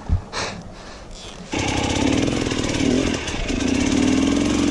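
Enduro dirt bike engine revving hard, held at high revs with a brief dip about three seconds in. It comes in suddenly about a second and a half in, after a short thud near the start.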